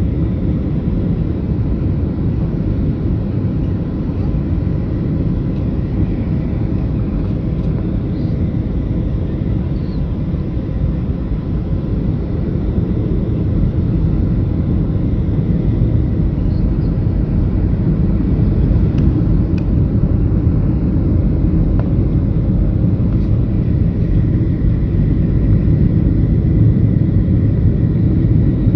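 Boeing 737-700 jet noise: a steady, deep rumble with a faint steady whine above it, growing a little louder over the last third.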